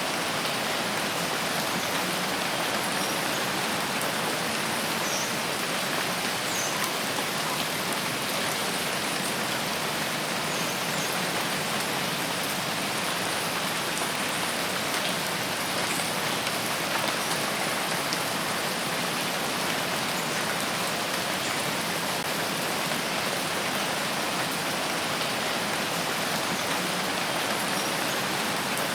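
Steady rain falling: an even, unbroken hiss with no change in loudness, and a few faint high chirps now and then.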